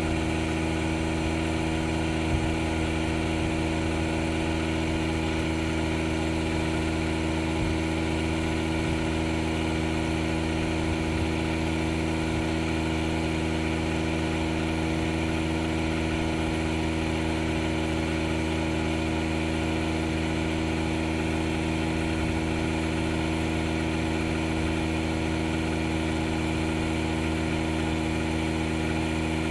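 DeWalt DCC020I cordless air inflator running steadily as it pumps up a dead-flat car tire toward a 30 psi setting.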